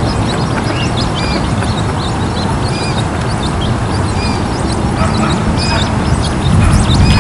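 American coot chicks peeping: many short, high notes, several a second, over a steady low rumble.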